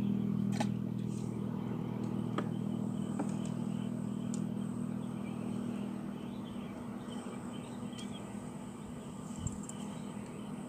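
Boat engine running steadily at a low, even hum that slowly fades, with a few faint clicks.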